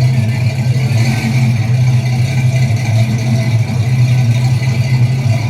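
Car engine idling with a loud, steady low rumble.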